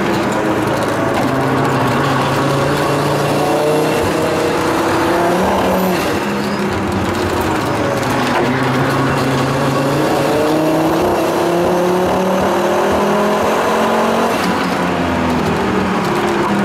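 Turbocharged inline-five engine of a tuned 550+ hp Volvo 850 T5R heard from inside the cabin under hard driving, its pitch climbing and dropping back several times, over steady road noise.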